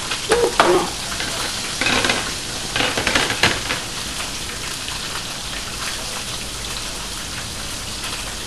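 French fries frying in hot oil: a steady crackling sizzle, with a few louder clatters in the first few seconds.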